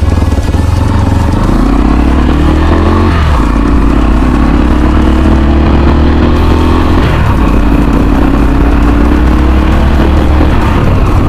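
Motorcycle engine pulling under acceleration, its pitch climbing and dropping back at gear changes about 3 and 7 seconds in, over a heavy low rumble of wind on the microphone.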